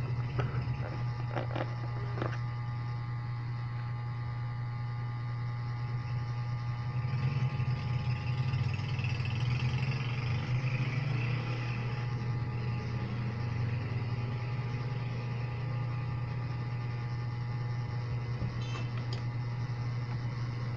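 A steady low mechanical hum throughout, with a few sharp keyboard key clicks in the first two seconds and a couple more near the end.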